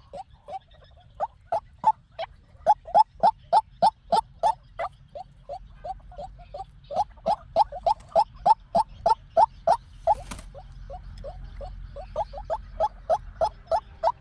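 White-breasted waterhen calling: a long run of short, sharp notes, about three to four a second, swelling louder and fading back in waves. It is the call used as a lure to trap waterhens.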